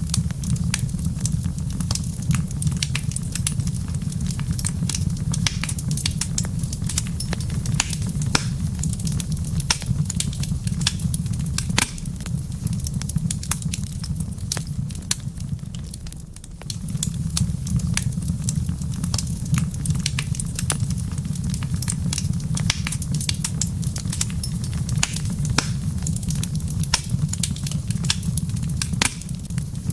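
Wood fire in a fireplace crackling, with many sharp pops and snaps over a steady low rumble that fades for a moment about halfway through.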